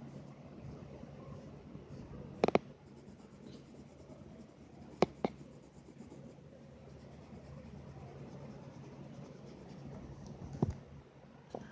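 A pen or marker scratching steadily on paper while drawing, with a few sharp clicks or taps: one about two and a half seconds in, a quick pair about five seconds in, and another near the end.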